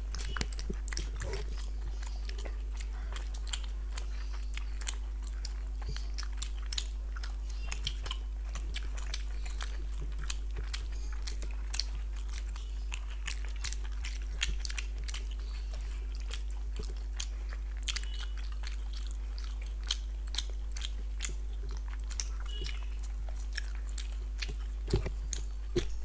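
Eating sounds: two people chewing and biting chicken gizzards and luchi, with many small wet mouth clicks. A steady low hum runs underneath.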